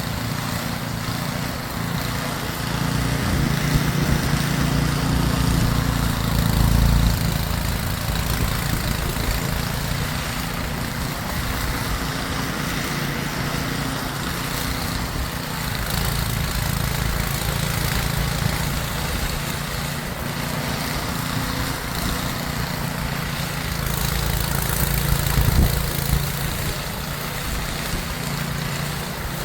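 Snowblower engine running steadily, with a constant hiss over it.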